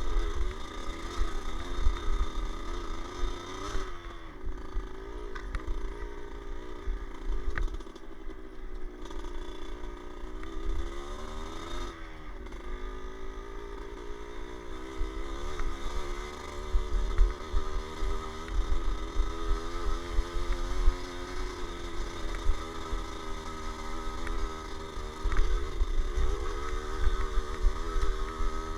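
Dirt bike engine running under way, its pitch rising and falling as the throttle opens and closes, with wind buffeting the microphone.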